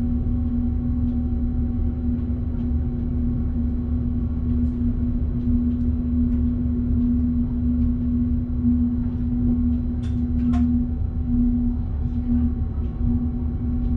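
Electric train running, heard in the driver's cab: a steady low rumble with a constant hum, faint scattered ticks, and two sharp clicks about ten seconds in.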